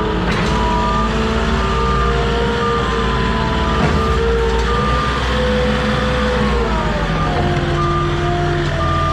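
Forklift engine running under hydraulic load while its backup alarm beeps about once a second. The engine pitch rises and falls, then drops near the end as the forks are worked.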